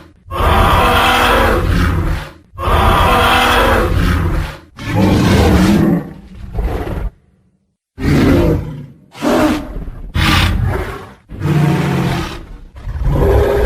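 Tyrannosaurus rex roar sound effects, one after another: three long, loud roars of about two seconds each, a brief silence, then five shorter roars in quick succession.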